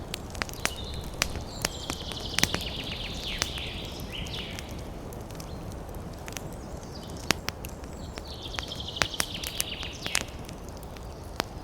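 Wood fire burning in a fireplace: a steady low rumble of flames with sharp, irregular crackles and pops. Twice, a high, fast-fluttering hiss rises over it for a few seconds.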